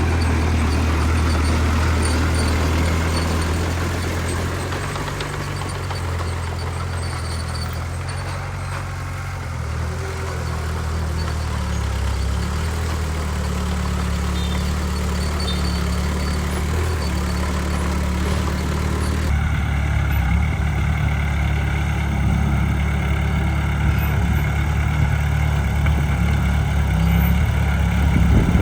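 Heavy diesel engines of earthmoving machinery running steadily at a work site. The sound changes abruptly about two-thirds of the way through.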